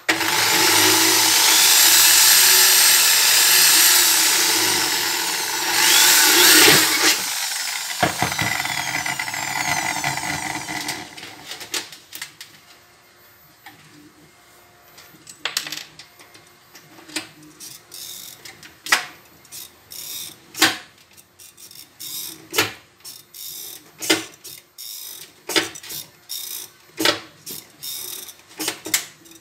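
Electric hand drill running and drilling through thin sheet steel for about the first ten seconds, loudest as it bites through. It is followed by a string of sharp clicks, about one a second, from a hand pop rivet gun being squeezed to set 5 mm pop rivets.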